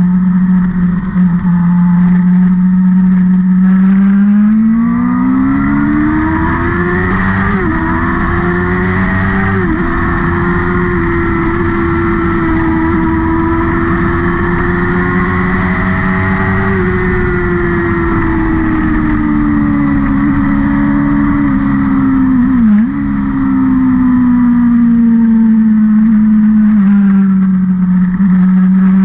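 Vehicle engine running hard on a track lap. Its pitch climbs with two short breaks about 7 and 9 seconds in, then holds high for several seconds. It sinks again, with a brief dip and jump near 23 seconds, and starts rising once more near the end.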